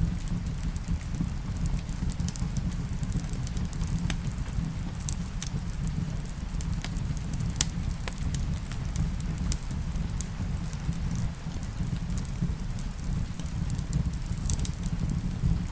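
Wood fire crackling with scattered sharp pops, mixed with a steady low rumble of rain on a roof. The loudest pop comes a little past halfway.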